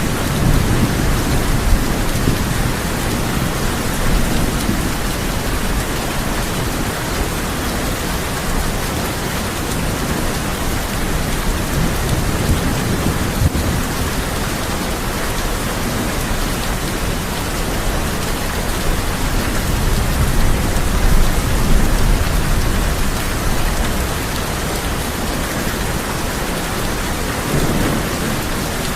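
Heavy rain falling steadily on a tin roof, with low rolling thunder rumbles that swell and fade several times.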